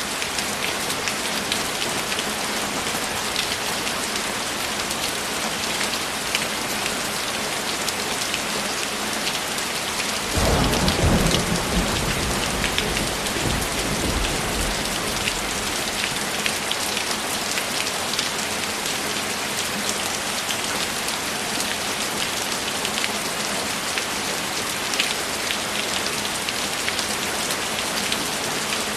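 Heavy rain falling steadily with fine patter of drops. About a third of the way in, a low roll of thunder rumbles for several seconds and fades out.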